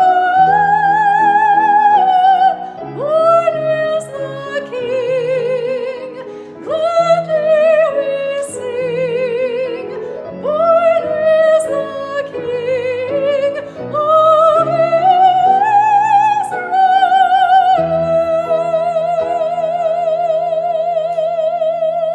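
A high classical solo voice, a soprano, sings a sustained line with wide vibrato over instrumental accompaniment. The phrase ends on a long held high note for the last few seconds.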